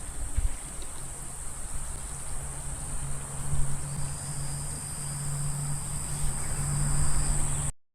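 Boat engine running steadily, a low hum over rumble, with a steady high-pitched whine above it; the sound cuts off suddenly near the end.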